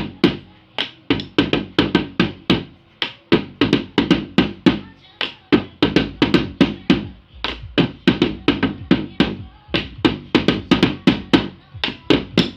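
A drum beaten in a quick supporter-style rhythm, about four sharp strokes a second, in short phrases with brief breaks between them. It is played by a beginner at practice.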